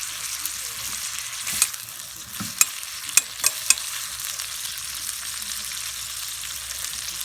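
Gatsu (pork stomach) sizzling as it fries in a cast-iron skillet, a steady hiss throughout, with five sharp clicks between about one and a half and four seconds in.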